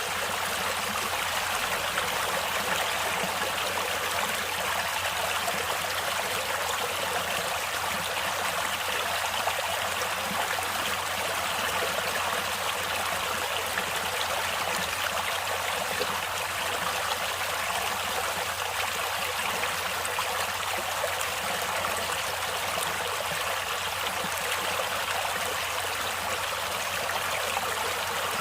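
Stream water flowing and trickling, steady and unbroken.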